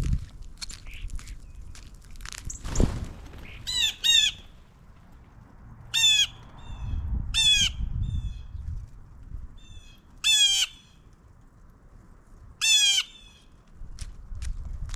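A bird giving loud, short calls, six in all, the first two in quick succession and the rest a few seconds apart.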